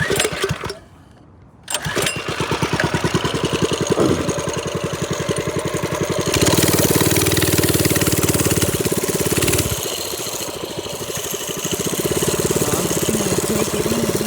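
TrailMaster Storm 200 minibike's small single-cylinder engine starting after a brief quiet moment, then running with a fast even pulse. It runs louder for about three seconds in the middle, then settles back to a steady run.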